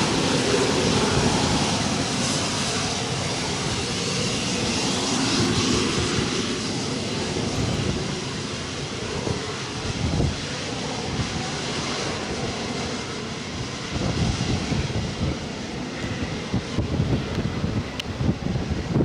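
An airliner's engines running as it passes, slowly fading away. Wind buffets the microphone in gusts, strongest over the last few seconds.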